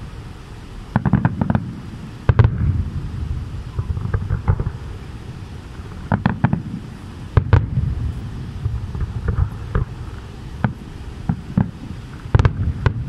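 Fireworks display: aerial shells bursting in a string of sharp bangs and crackles, in irregular clusters a few seconds apart. A low rumble runs between the bursts.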